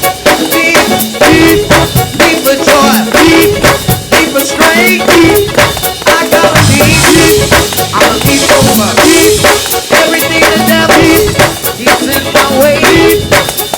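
Live gospel praise band playing a fast, up-tempo groove, with a drum kit driving a steady beat of rapid strokes under the other instruments.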